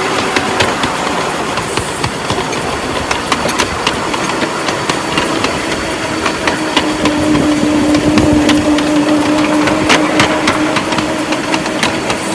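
A vehicle running: a steady rumble with scattered clicks, and a humming tone that settles lower in pitch and grows louder midway through.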